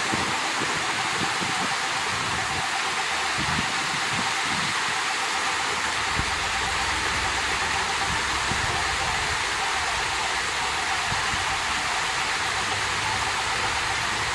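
Water flowing out of a small lake with a steady rushing sound. A low rumble joins underneath about halfway through.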